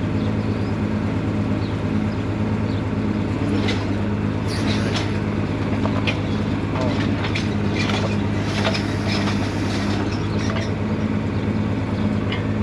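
An engine running steadily at an even speed, with a constant low hum and scattered metal clanks and rattles, heaviest in the middle stretch.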